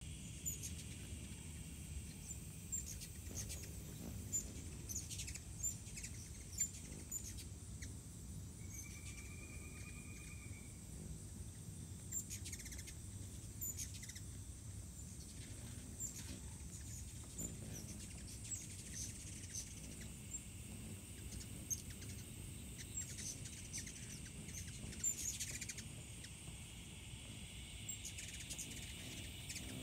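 Short, high bird chirps scattered throughout, over a steady high-pitched insect drone.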